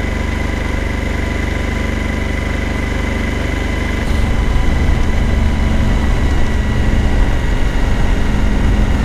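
Suzuki V-Strom 1000 motorcycle's V-twin engine running at low speed, getting louder about four seconds in.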